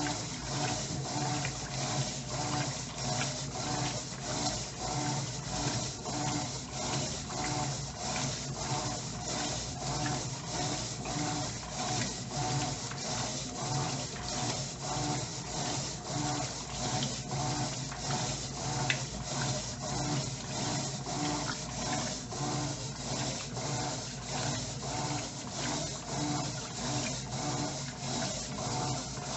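Electrolux LTE09 top-loading washing machine agitating its rinse water: the agitator swishes the clothes back and forth in an even rhythm, about two strokes a second, over a steady motor hum.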